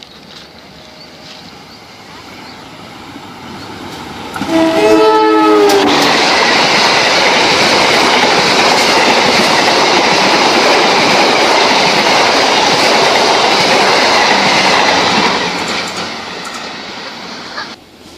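Sancaka passenger train approaching and passing close by. The locomotive's horn sounds a chord for about a second and a half, dipping slightly in pitch as it passes. The loud rush of the carriages' wheels on the rails follows for about ten seconds, then fades and drops off near the end.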